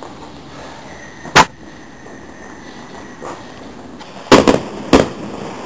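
Garden fireworks going off: a sharp bang about a second and a half in, then a quick cluster of three loud bangs near the end.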